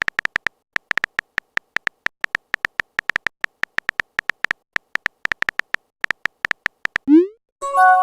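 Synthetic text-typing sound effect: a rapid, irregular string of short high beeps, several a second. Near the end a quick rising swoop and a brief chime of a few tones, like a chat message notification.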